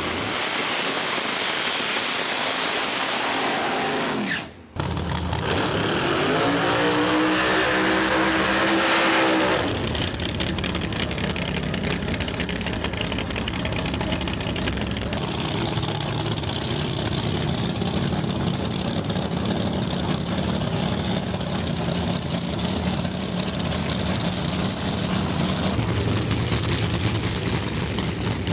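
Drag-racing car engine noise at the track. The sound cuts out abruptly for a moment about four and a half seconds in, then an engine revs with a rising note for about four seconds, followed by steady engine rumble and track noise.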